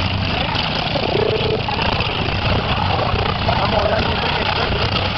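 Demolition derby cars' engines running on the track, with the voices of the spectator crowd mixed in.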